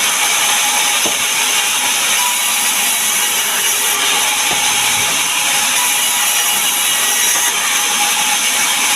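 Sawmill saw cutting through acacia wood, a loud, steady high-pitched noise that does not let up.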